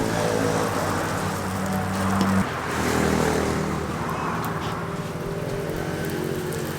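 Car engine running while driving, with road noise. The engine's note changes abruptly about two and a half seconds in.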